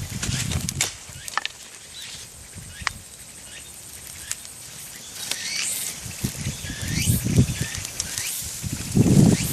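Outdoor ambience: scattered sharp pops and crackles from a small wood bonfire, birds calling with short rising chirps, and a few dull low rumbles, the loudest near the end.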